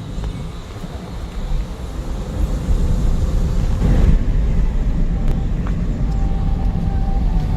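Car driving uphill, heard from inside the cabin: a steady low road and engine rumble.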